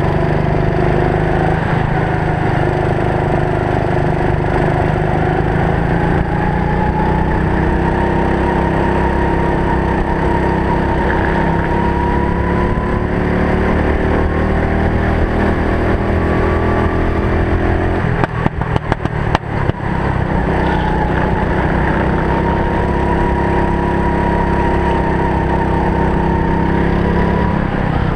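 Go-kart engine running under way, heard from the driver's helmet camera, its pitch rising and falling as the kart speeds up and slows. About two-thirds of the way through there are a couple of seconds of crackling with brief dips in level.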